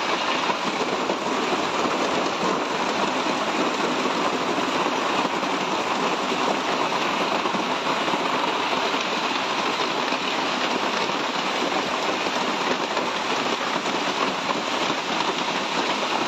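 Storm downpour coming down hard and steady: a dense, even hiss with no let-up.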